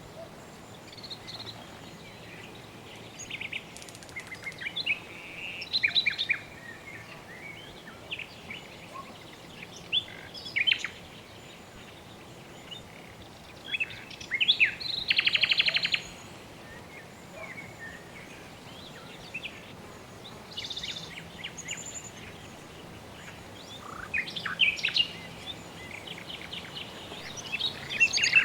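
Birds calling and chirping in short scattered phrases, with a buzzy trill about halfway through and quick rapid trills near the end, over a faint steady background.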